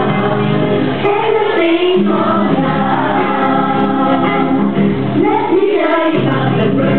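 A group of voices singing a song together, with instrumental accompaniment.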